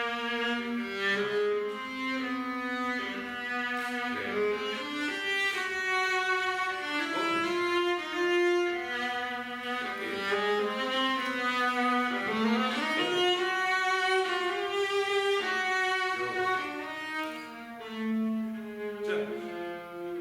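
Bowed string instruments playing several overlapping lines of long held notes in a free improvisation, with sliding pitches about twelve seconds in.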